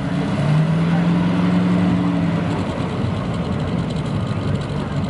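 Vintage car's engine running as the car is driven up to the stage, with a steady low drone held for about two seconds before it eases back.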